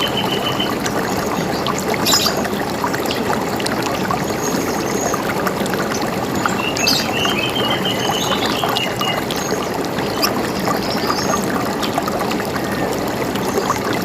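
River water running steadily, with birds calling over it in short trills of repeated high notes; the clearest come about two seconds in and around seven seconds in.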